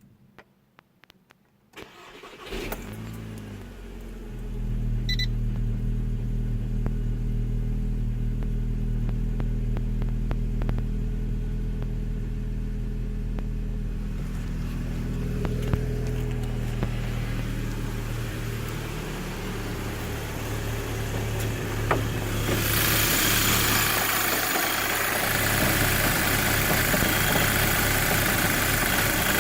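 Volkswagen Golf GTI Mk5's 2.0 TFSI four-cylinder engine cold-started after a few faint clicks, catching quickly and settling into a rough cold idle. About two-thirds of the way through, a steady hiss joins the idle.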